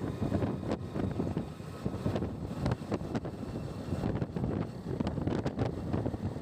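Wind buffeting the microphone in irregular gusts over the low rumble of a moving vehicle.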